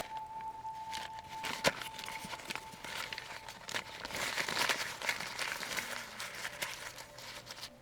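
Crinkling, rustling handling noise made of many small clicks, with one sharp click about one and a half seconds in.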